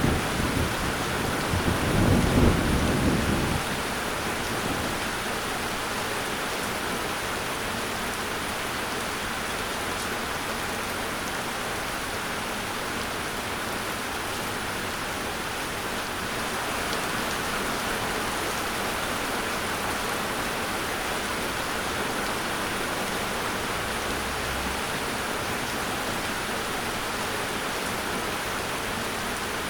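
Steady heavy rain, with a rolling rumble of thunder that dies away about three or four seconds in.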